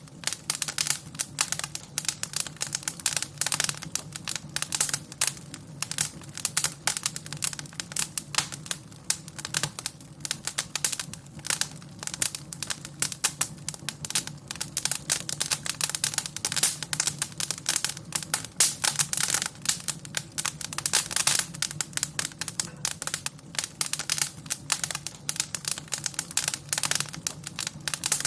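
Wood fire in a fireplace crackling: a constant run of irregular pops and snaps over a steady low rumble.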